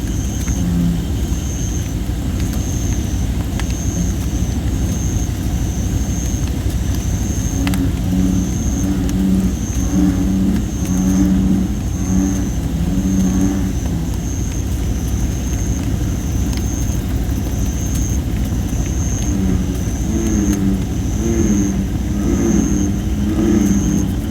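American bullfrogs calling in low droning runs, in two bouts through the middle and near the end. Under them a campfire of thin, not fully dried red robin (Photinia) wood crackles now and then. A high chirp repeats steadily, about once a second, throughout.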